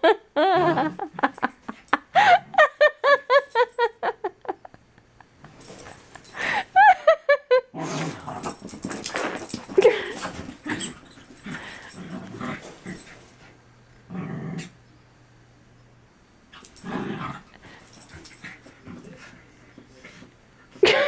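A puppy growling and yipping as it chases its own tail, with a quick run of short high calls at the start, a falling whine a few seconds later, then rough scuffling.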